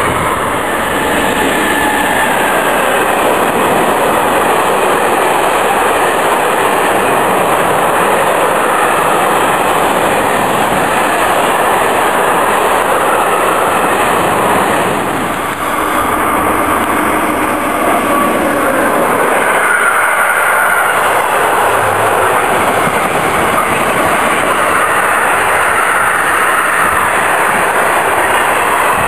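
Freight trains of car-carrier and tank wagons passing close at speed: a loud, steady rumble of wagons running on the rails, with a short dip in level about halfway through as one passing gives way to the next.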